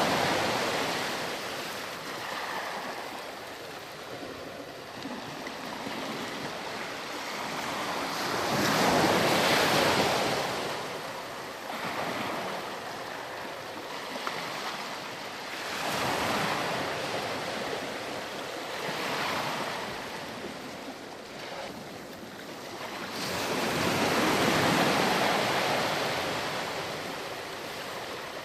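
Ocean waves breaking and washing up a sandy beach, a rush of surf that swells and falls back about every eight seconds.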